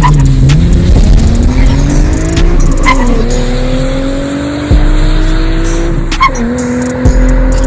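Nissan 370Z's 3.7-litre V6 through an SRS axle-back exhaust under hard acceleration. The engine note climbs, drops at an upshift about three seconds in and again about six seconds in, then climbs again.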